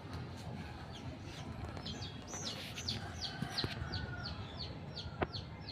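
A bird calling: a rapid series of short, descending chirps, about three a second, starting about two seconds in, over a low rumbling background, with a sharp click near the end.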